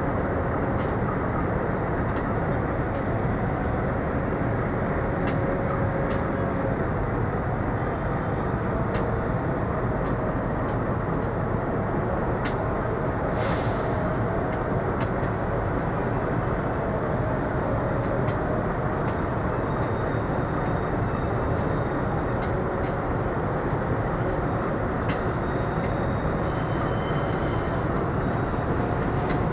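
Diesel-hauled passenger train rolling slowly into the station: a steady rumble with scattered clicks, and faint high wheel squeals near the end.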